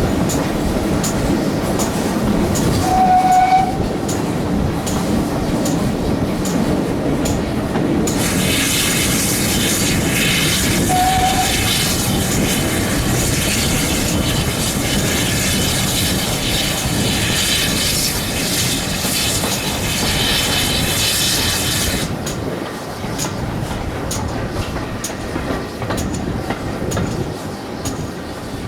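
GWR Manor class 4-6-0 steam locomotive 7820 Dinmore Manor and its train running, with a steady rumble and regular clicks. Two brief high tones sound about three and eleven seconds in. A loud hiss sets in about eight seconds in and cuts off sharply some fourteen seconds later.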